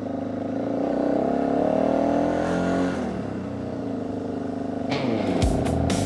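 Motorcycle engine under way, its pitch rising for the first few seconds as it accelerates, then holding steady. Near the end a run of sharp beats comes in.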